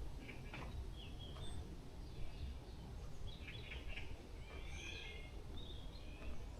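Forest birds calling: several clusters of short, high chirping notes, the busiest about two thirds of the way through, over a steady low background rumble.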